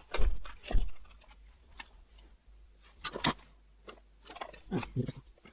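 Scattered clicks and knocks from tools and parts being handled on a circuit board during desoldering work, about half a dozen in all, with the sharpest snap about three seconds in.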